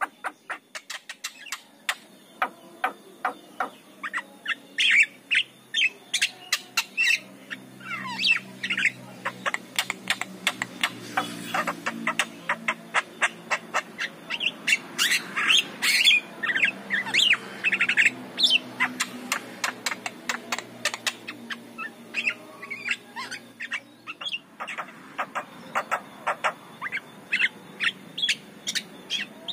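Javan myna singing a long, varied jumble of rapid sharp clicks, squawks and short whistled notes, with a lower, drawn-out sound underneath through the middle stretch.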